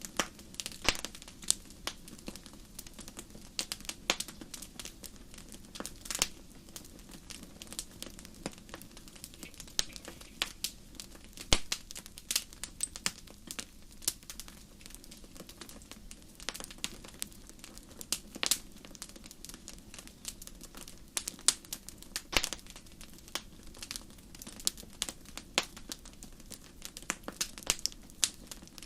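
Wood burning in a campfire: irregular sharp crackles and pops over a steady low background noise of the fire.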